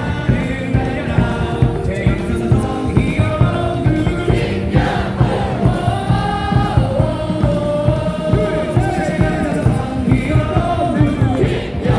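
Baseball crowd singing a player's cheer song along with loud amplified music over a steady, driving beat.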